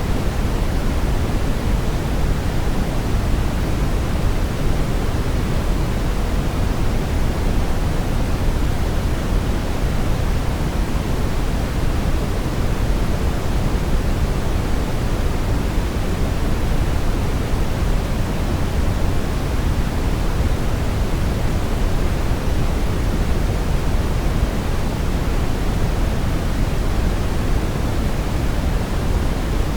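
Synthetic brown noise: a steady, even hiss, heaviest in the deep low end and rolling off toward the treble, with no variation.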